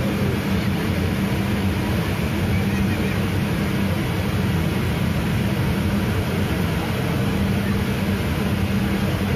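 Motorcycle engine running steadily at low revs, with no revving up or down.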